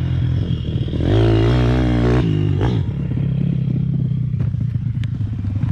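Pit bike engine running under throttle on a trail, revving up about a second in and easing off a little over a second later.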